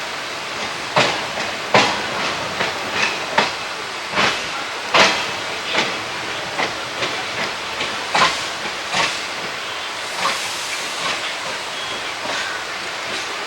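Indian Railways ICF passenger coach running along the track: a steady rushing rumble with frequent irregular clacks and knocks from the wheels and coach.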